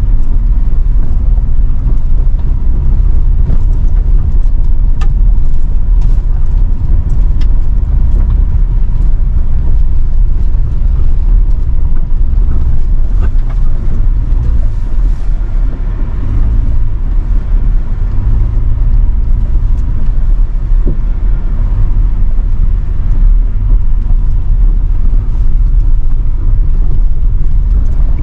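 A car on the move: a loud, steady low rumble of engine and road noise, with a few faint clicks over it.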